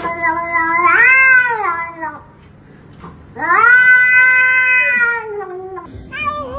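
A domestic cat yowling: two long drawn-out meows, the first rising in pitch about a second in and the second starting a little after three seconds in and lasting about two seconds.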